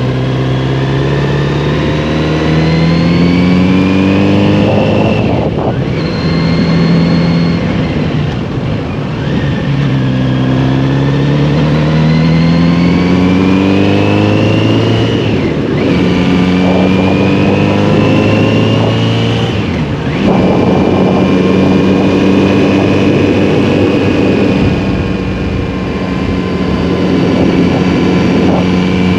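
Motorcycle engine under way, its pitch climbing as it pulls and dropping sharply at each gear change several times, then holding a steady pitch near the end.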